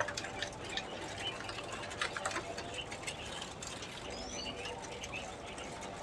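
Birds chirping in many short, high calls, with scattered light clicks and taps over a steady background.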